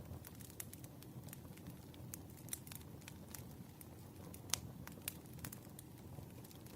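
Wood fire crackling: irregular sharp pops and snaps over a low steady rumble of burning logs, with one louder pop about four and a half seconds in.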